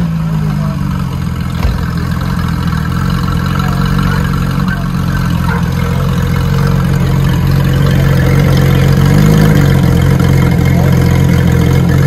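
Porsche 997 GT3 RS's swapped-in 4.0-litre flat-six idling steadily just after a cold start, with a brief rise and fall in revs about nine seconds in.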